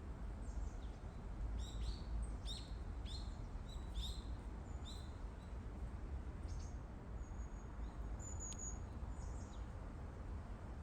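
Wild birds singing: a run of short falling chirps about twice a second for a few seconds, then a few scattered calls and a thin high whistle, over a steady low rumble.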